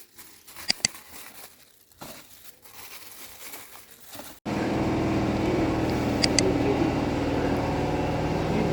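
Quiet ambient sound broken by a pair of sharp clicks, then from about halfway a sudden, steady, louder motor hum with a low drone, with another pair of quick clicks in it.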